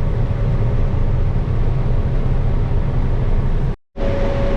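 Combine harvester running during corn harvest, a steady low engine rumble. It drops out completely for a split second near the end and comes back with a steady hum added on top.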